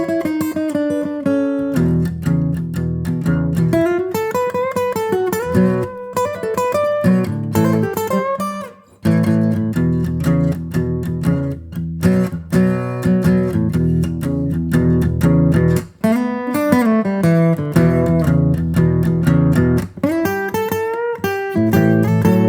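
Guitar music: plucked notes over a bass line, with notes that slide in pitch now and then and a short break about nine seconds in.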